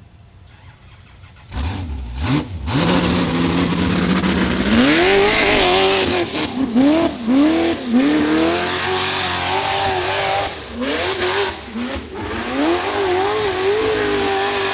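Rock bouncer buggy engine coming in loud about a second and a half in, then revving hard in repeated short bursts, the pitch rising and dropping again and again.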